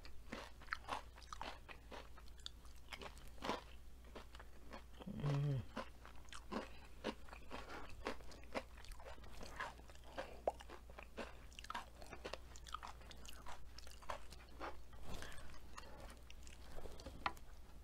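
Close-miked chewing of crispy breaded fried asparagus: many small crisp crunches and chewing sounds, with a short hummed "mmm" about five seconds in.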